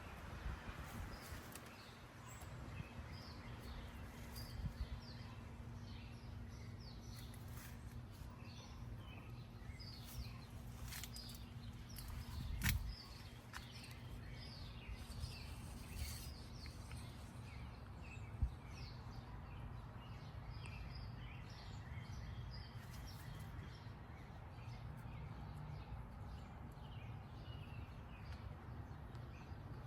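Birds chirping faintly, many short calls over a low steady background rumble, with a couple of sharp knocks in the middle.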